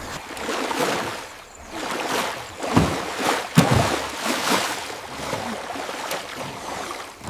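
Water splashing and swishing in uneven surges, with two heavier splashes near the middle.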